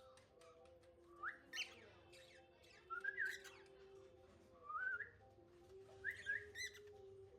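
Lutino male cockatiel whistling: several short groups of rising whistled chirps spread through a few seconds.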